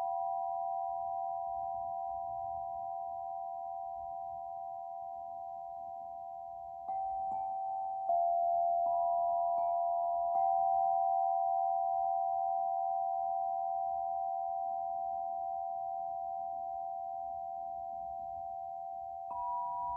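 Struck sound-healing instruments ringing with several pure, overlapping tones that slowly fade. Fresh strikes about 7 to 10 seconds in and again near the end bring in new pitches.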